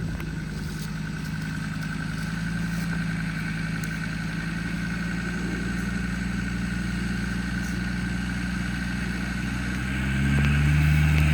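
Off-road 4x4's engine running steadily at low revs with a faint steady whine over it; about ten seconds in it grows louder and deeper as it takes load.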